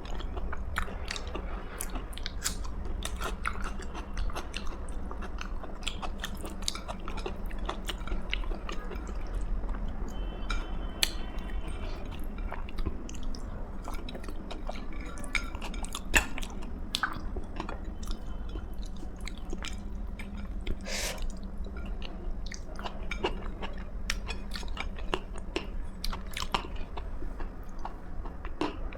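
A person chewing food close to the microphone, with frequent short crisp clicks and crunches from biting and mouth sounds, over a steady low hum.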